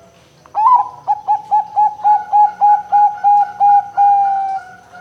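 Zebra dove (perkutut) cooing its song phrase: a short opening note, then a rapid run of about a dozen short coos at roughly four a second, ending in a longer drawn-out note that fades.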